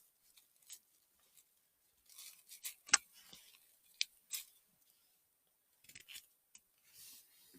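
Faint, scattered crackles and rustles of forest-floor litter and twigs being handled and stepped on while picking chanterelles, with one sharp snap about three seconds in.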